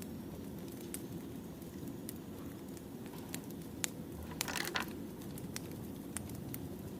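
Wood fire crackling: a steady low rumble of burning logs with scattered sharp pops, and a short flurry of louder pops a little past the middle.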